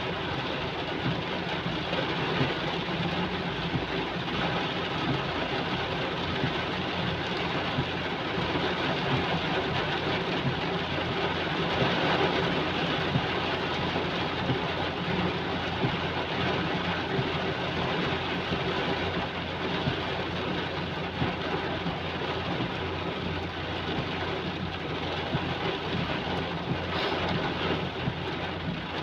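Heavy rain pouring down steadily, a dense unbroken hiss with a low steady hum underneath.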